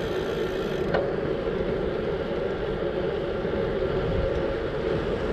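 Steady wind rush and rumble on the microphone while riding a bicycle, with one brief click about a second in.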